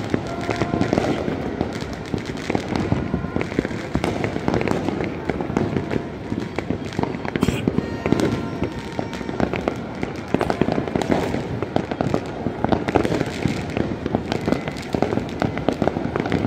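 Many fireworks and firecrackers going off at once across a city: a dense, unbroken mass of overlapping bangs and crackles, near and far, with no pause.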